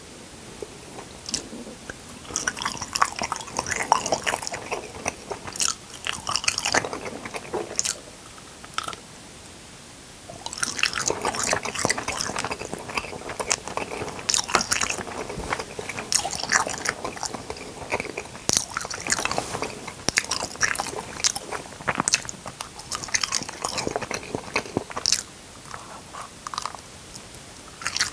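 Close-miked chewing of crunchy food, with crisp biting and crunching in two long bouts: one starting about two seconds in, and a second after a short pause, which dies down near the end.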